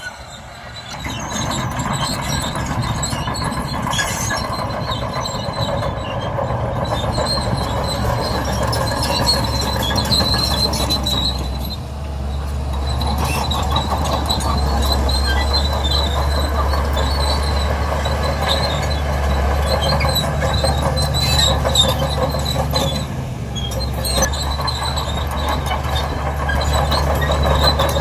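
Crawler bulldozer at work: its diesel engine runs steadily under load while the steel tracks squeal. The sound swells about a second in and eases off briefly twice.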